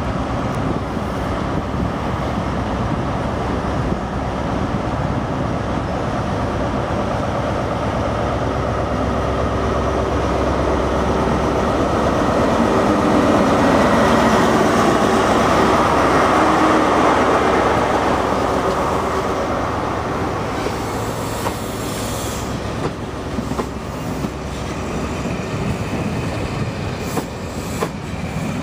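The Network Rail New Measurement Train, a yellow High Speed Train with a Class 43 diesel power car, passing close by. The power car's engine builds to its loudest as it goes past about halfway through. The coaches then roll by with wheel clatter and clicks over the rail joints.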